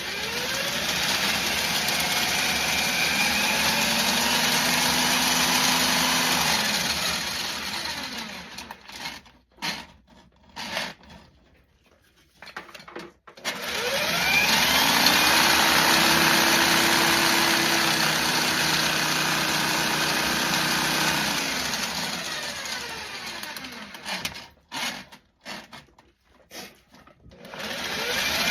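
Drill spinning a Husky drain-snake attachment as the cable feeds into a clogged pipe. The motor spins up, runs steadily for several seconds and winds down twice, with short stop-start trigger bursts in between, and spins up again near the end.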